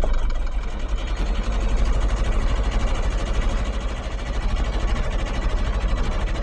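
A sailboat's inboard diesel engine idling steadily with an even, rapid pulse, freshly started after warming the glow plugs.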